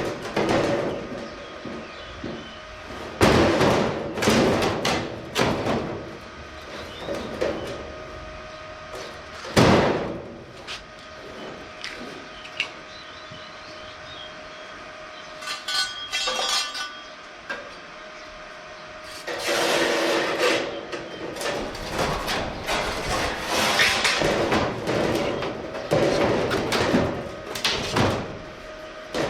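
Sheet-steel workshop noise: irregular knocks and clanks with stretches of scraping and rattling, and a faint steady tone underneath.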